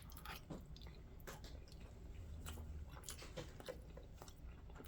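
Faint chewing of a mouthful of cold thin spaghetti in tomato sauce, with soft scattered clicks of the mouth.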